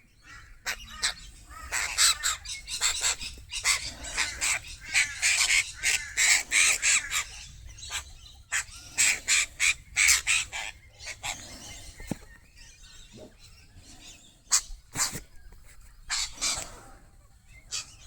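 A group of Australian magpies calling, several birds overlapping in bursts with short lulls between.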